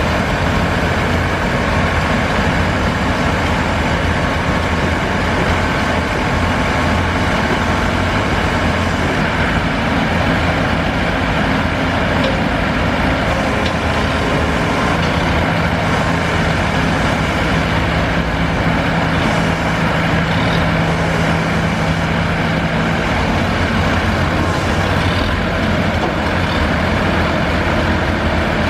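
Farm tractor engine running steadily, with an extra steady hum joining in for several seconds midway.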